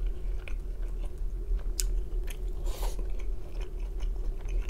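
A person chewing a mouthful of mixed vegetables close to the microphone, with a few short clicks of a wooden spoon against a glass bowl. A steady low hum runs underneath.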